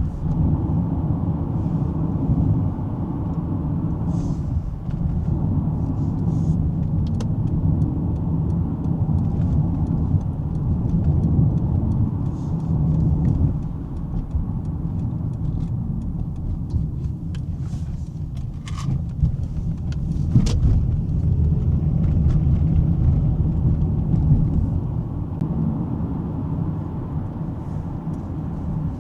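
A 2005 Lexus ES330 driving along, heard from inside the cabin: a steady low rumble of road and engine noise, with a couple of light knocks about two-thirds of the way through.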